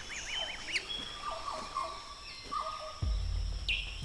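Rainforest birds calling: a quick run of short up-and-down notes, then several held whistled notes, over a steady high-pitched hum. A low rumble comes in about three seconds in.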